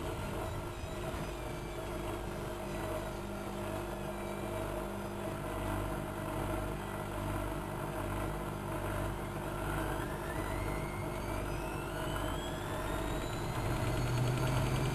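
Bauknecht WA1400 Dolphin washing machine running with a steady mechanical hum. From about two-thirds of the way in, a whine rises steadily in pitch as the motor and drum speed up.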